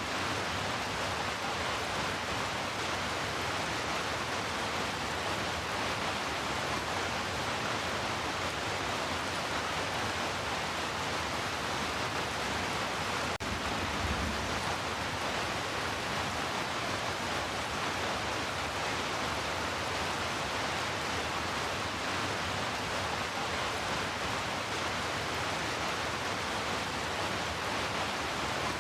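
Heavy rain falling steadily, an even, dense hiss with no letup.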